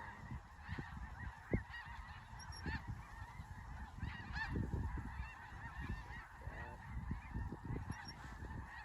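A large flock of snow geese calling overhead: a dense, continuous chorus of many overlapping high honks, with a low, uneven rumble underneath.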